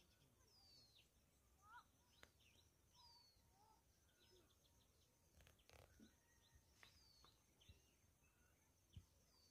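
Very faint bird chirps, short calls scattered every second or so over near silence with a faint steady high hiss. There is one soft thump near the end.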